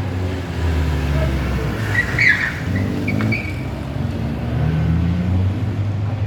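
Rally car engine running, its note rising and falling, with a brief high-pitched squeal about two seconds in.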